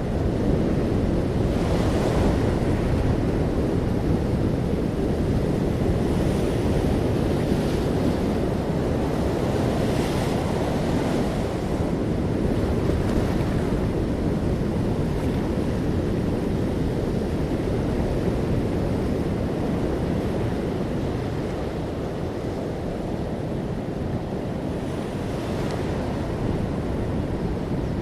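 Ocean waves breaking and washing in, a steady low rumble with a few louder hissy surges as waves wash up, about 2, 10 and 25 seconds in. Wind blows on the microphone throughout.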